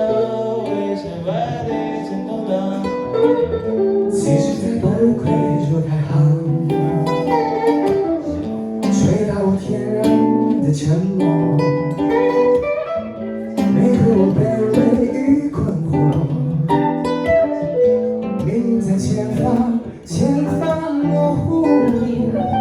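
Acoustic and electric guitars playing together in an instrumental passage of an improvised jam, with held and gliding lead notes over strummed chords.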